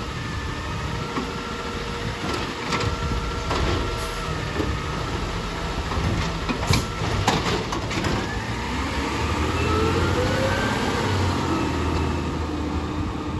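Recycling garbage truck running during collection: a steady engine rumble with several sharp knocks and clanks in the first half. A rising whine follows about two-thirds of the way through.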